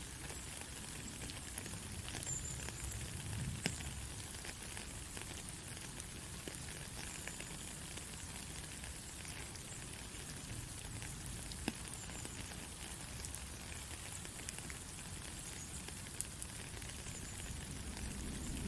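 Steady heavy rain: a continuous hiss with scattered sharp drop hits and a low rumble underneath.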